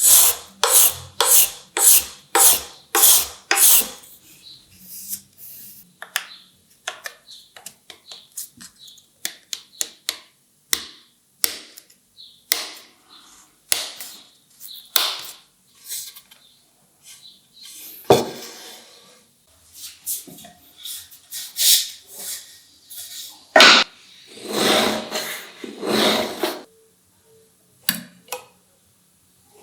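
Strokes of a hand tool working wood: a quick even run of about two strokes a second at first, then slower, irregular strokes of varying strength.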